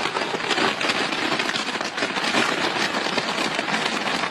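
Fireworks going off in a dense, rapid, unbroken run of crackling pops.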